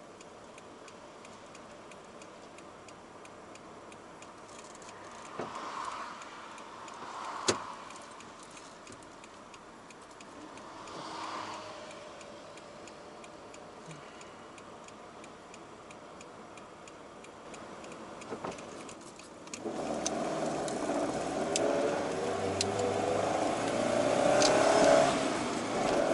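Toyota AE86's swapped-in five-valve-per-cylinder 4A-G engine heard from inside the cabin: a quiet idle with a few light clicks, then about 20 seconds in the engine revs up and climbs in pitch as the car pulls away.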